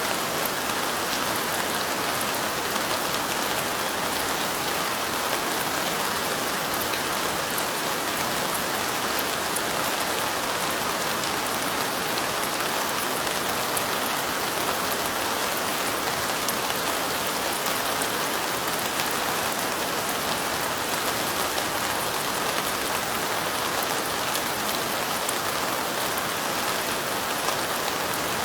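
Steady light rain, an even hiss of falling drops with fine faint pattering, unchanging throughout.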